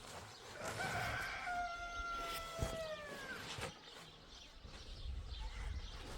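An animal's single drawn-out call, about three seconds long, holding a steady pitch and then falling away at the end.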